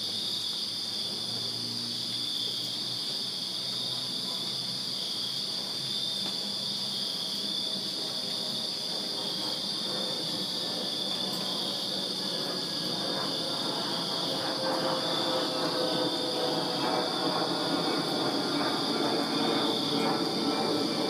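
Crickets chirping in a steady, unbroken chorus. From about halfway through, a low mechanical rumble with droning tones rises under it and grows louder toward the end.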